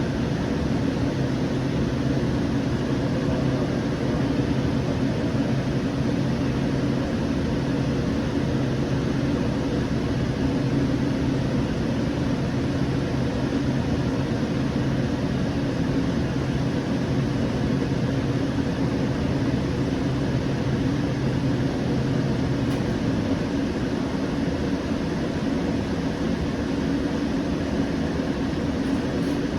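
Steady hum and rumble inside a Siemens S700 light rail car, with a low steady tone that drops away about 23 seconds in.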